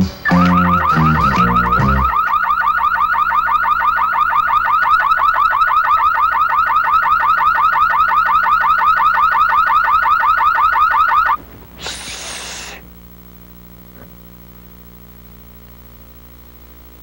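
Saab 9000 anti-theft alarm siren sounding with a fast, even electronic warble, then cutting off suddenly about eleven seconds in. The last moments of guitar music lead into it, and a short hiss follows the cut-off.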